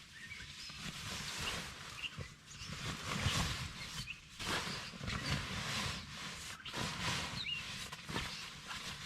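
Outdoor ambience: a rushing noise that swells and fades every second or two over a low rumble, with a few short, high chirps scattered through it.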